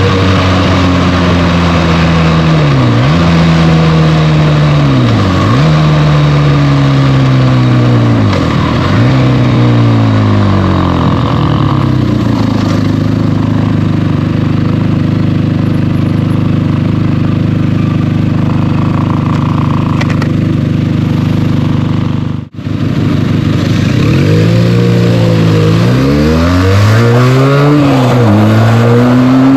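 Benelli TNT 300's twin-cylinder engine on its stock exhaust pulling up through the gears: the revs climb and fall away sharply at each upshift, three times, then hold a steady note for about ten seconds while cruising. The sound cuts out briefly near the two-thirds mark, then the engine pulls up through the gears again with two more shifts.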